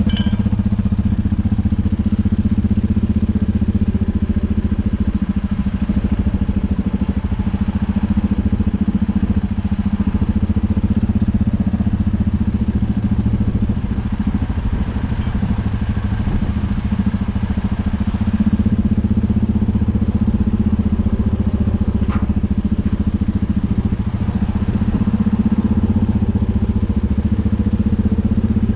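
The four-cylinder diesel engine of a UTB Universal 650 tractor running steadily at a constant speed. There is one faint click about 22 seconds in.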